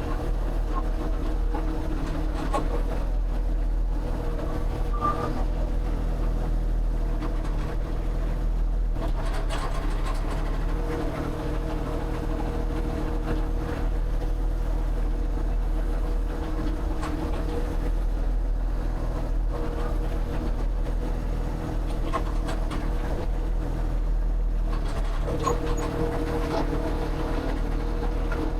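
An engine or motor running steadily at a constant speed, with a few faint clicks over it.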